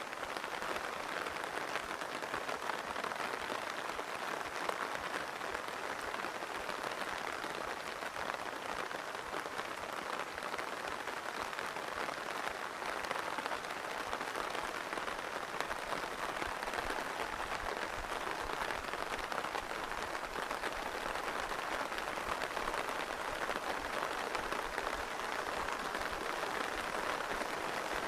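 Rain falling steadily, an even hiss of many drops with no let-up.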